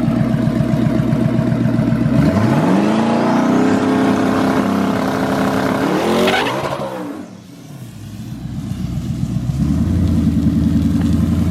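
Drag-racing car's engine running steadily at the line, then launching about two seconds in and pulling hard down the strip with a loud, high pitch. Around six seconds it sweeps up and then falls away in pitch as it passes and fades. Near the end another engine runs up close, its sound building.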